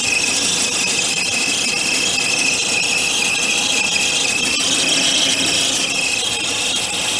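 Citroën C3 Aircross engine running with its accessory belt off, the timing belt giving a steady, high-pitched squeal. The squeal points to the timing belt slipping on its pulleys. The mechanic calls it an old belt squealing, and on teardown it is traced to dirt built up in the pulleys.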